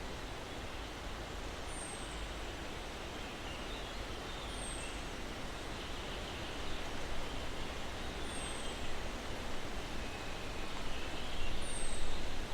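Breeze rustling through pine trees as a steady hiss that swells in gusts toward the end. A bird gives a short, high chirp falling in pitch four times, every few seconds.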